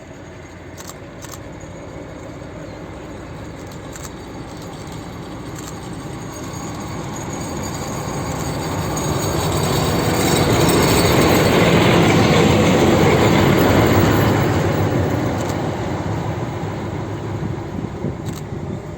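Train hauled by SU45 and SU46 diesel-electric locomotives passing by: the rumble of engines and wheels builds over several seconds, is loudest around the middle, then fades away.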